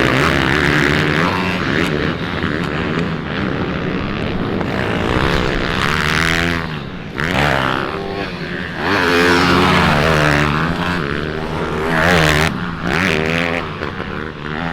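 Several pit bike engines revving hard on a race track, their pitch rising and falling repeatedly as they accelerate and back off.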